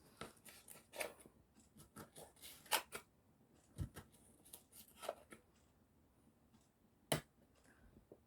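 Kitchen handling noises: a run of irregular light clicks and knocks, a dull thump about four seconds in, and one sharp click near the end.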